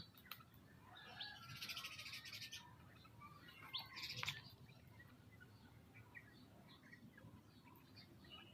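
Birds calling and chirping faintly, with a harsh, rasping chatter about a second and a half in and a few sharp calls around four seconds.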